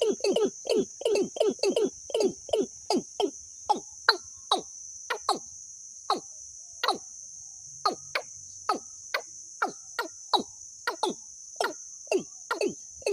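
A bird calling a long series of short notes, each sliding steeply down in pitch. The notes come fast at first, slow to about two a second in the middle and speed up again near the end, over a steady high-pitched insect drone.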